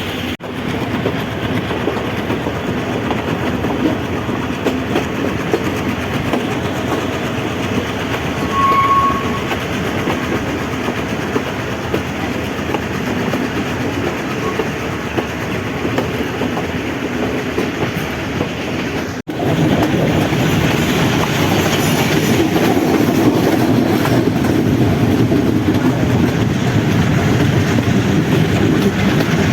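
Passenger train running along the track, with the steady rumble and clickety-clack of the wheels over the rail joints. It breaks off briefly twice and runs louder after the second break, about two-thirds through. A short high tone sounds about nine seconds in.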